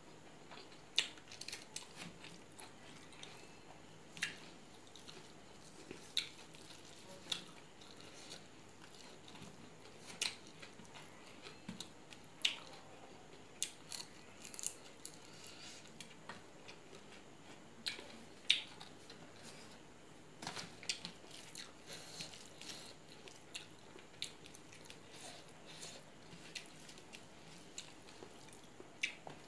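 Close-miked eating: a person chewing rice eaten by hand, with sharp, irregular mouth clicks and smacks, a few every second or two.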